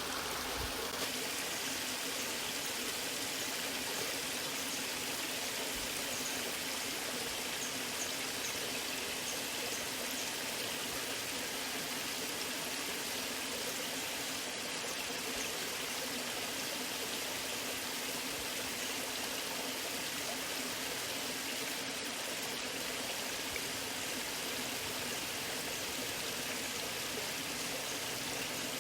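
Steady rushing and splashing of flowing water from a natural waterfall or stream, even in level throughout.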